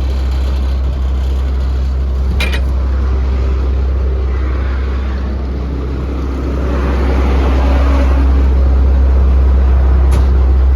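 Diesel truck engine, the International DT466, running steadily at idle with a deep, even rumble. It grows somewhat louder about two-thirds of the way in. Two short clicks come, one early and one near the end.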